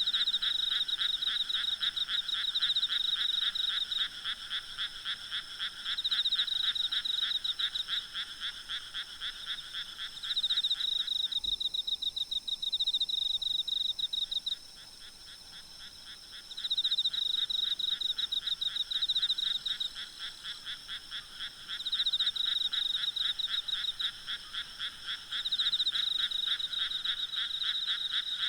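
A night chorus of frogs croaking in rapid, pulsing call trains that come in overlapping bouts of a few seconds. Insects keep up a steady high trilling underneath.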